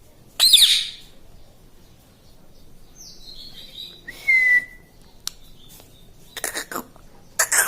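Pet parrot calling. A short, sharp squawk comes about half a second in, then a clear whistled note a little after four seconds, and a few short chirps and clicks near the end.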